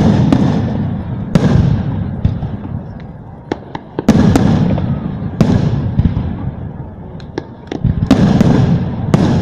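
Aerial firework shells bursting: about five loud booms, each trailing off in a rumbling echo, with sharp smaller pops and crackles in between.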